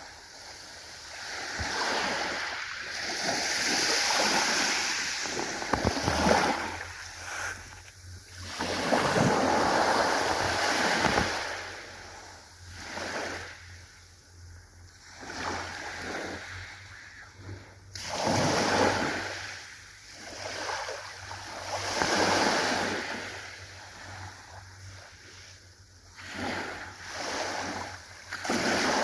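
Ocean waves breaking and washing ashore, each surge swelling and fading every few seconds.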